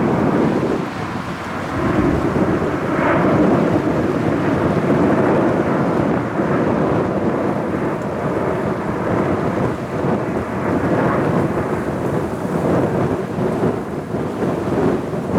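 Jet airliner engines, a loud steady low rumble.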